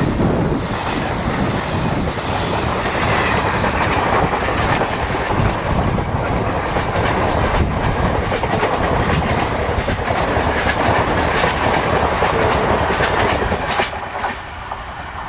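A train running past at speed, its wheels clattering over the rail joints. The noise drops away about fourteen seconds in.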